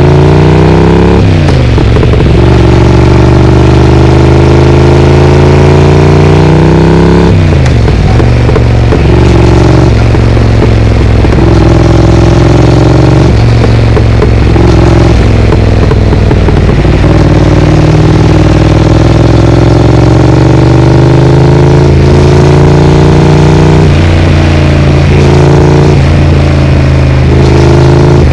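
Triumph Speed Twin parallel-twin motorcycle running through a Vance & Hines aftermarket exhaust while being ridden. It is loud, and the engine note climbs steadily and then drops sharply, again and again, as the rider shifts gears or rolls off the throttle.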